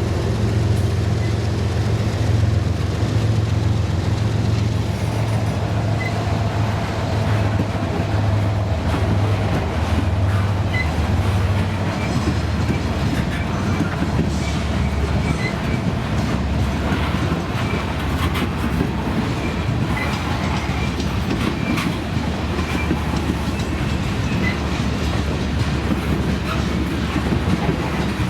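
Freight train passing: the diesel locomotive's low engine drone fades after about twelve seconds, giving way to the rumble of rolling cars with their wheels clacking on the rails.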